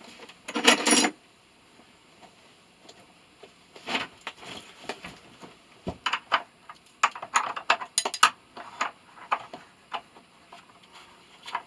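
Metal tools and parts clattering and clinking as they are handled: a loud rattling clatter about a second in, then a scatter of short clinks and knocks.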